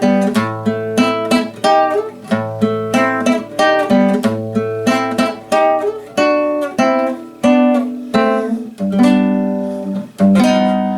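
Background music: an acoustic guitar playing a run of plucked notes and chords, with no singing.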